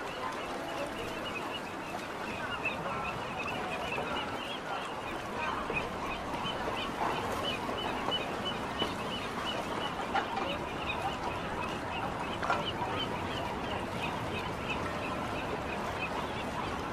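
A bird calling in a long run of short high notes, about three or four a second, over a steady background noise; the calls stop about thirteen seconds in.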